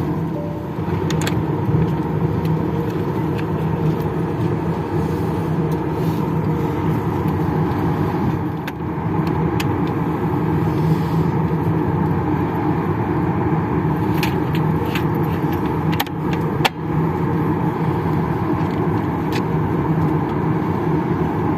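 Steady cabin hum of a Boeing 737-800 standing at the gate, the ventilation air running, with a few sharp clicks and knocks about two-thirds of the way through.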